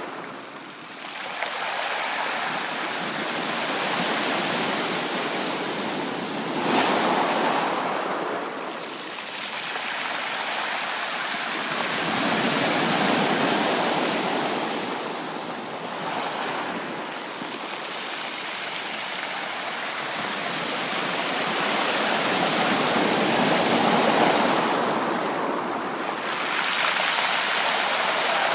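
Ocean waves breaking on a beach: a continuous wash of surf that swells and falls back every several seconds, with one sharper break about seven seconds in.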